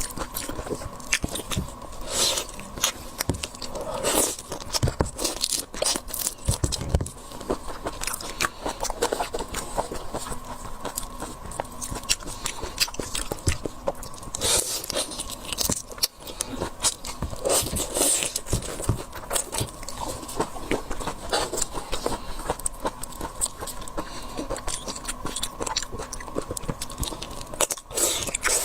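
Close-miked eating of seafood: steady, irregular biting and chewing with crunches and wet clicks.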